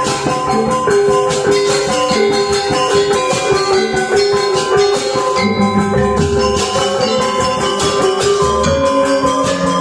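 Balinese gamelan gong ensemble playing: ringing bronze metallophone and gong-chime notes over dense, fast clashing of small cymbals, with lower notes coming in about halfway through.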